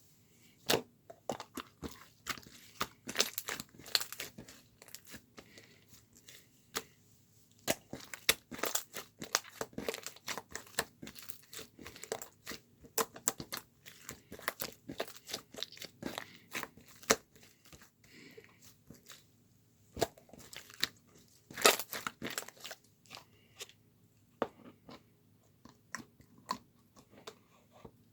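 Close, irregular crunching and crackling: quick clusters of sharp clicks with short pauses between them, one especially loud crunch near the end.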